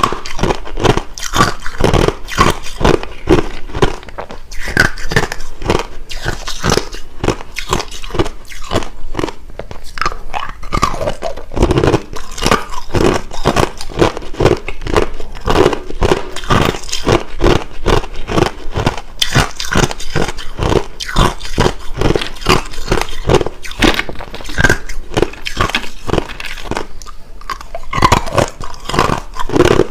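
Close-miked chewing of hard crushed ice: a rapid, continuous run of loud crunches as the pieces are bitten and ground between the teeth.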